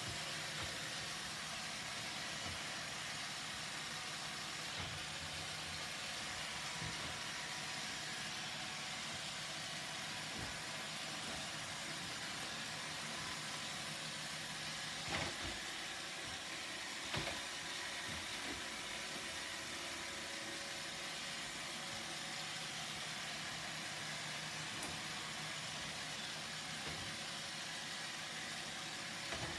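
Roomba robot vacuum running steadily, a continuous motor and brush whir, with a couple of short knocks about halfway through.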